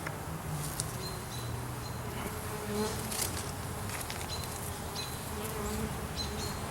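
A swarm of honey bees buzzing close up as they cluster into a clump, many bees humming at once with pitches that shift as individual bees fly past.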